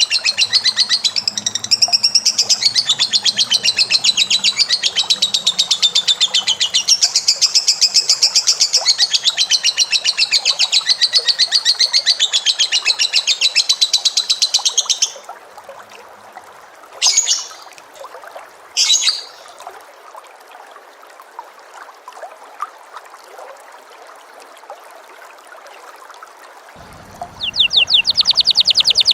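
A caged songbird singing a long, very rapid trill for about fifteen seconds. It breaks off, gives two short chirps, and starts a fast trill again near the end.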